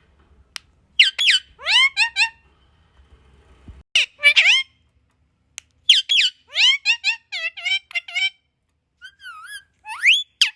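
A pet parrot calling in quick runs of short, sweeping squawks and chirps. The calls come in several clusters of three or more, with short quiet gaps between them.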